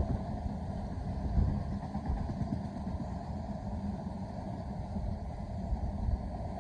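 A freight train headed by Class 66 locomotive 66546 running through the station, a steady low rumble with no let-up.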